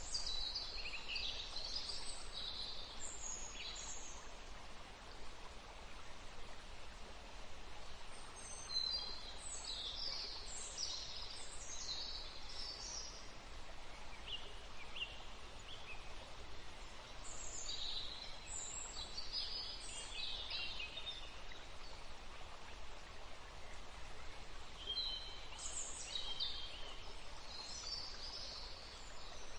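Forest field recording: songbirds singing in four short bouts of quick, high phrases over the steady rush of a small stream.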